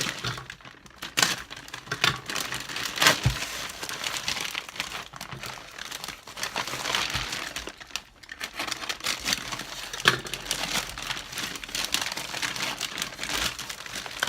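Packaging crinkling and rustling as a parcel is unpacked by hand, with irregular sharp crackles and a few louder snaps.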